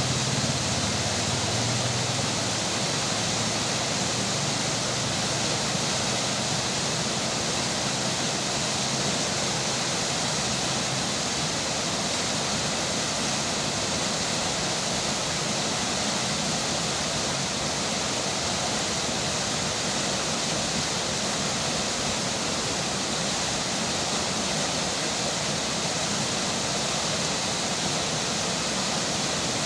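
River water flowing steadily, an even rushing hiss with no breaks. A faint low hum fades out in the first couple of seconds.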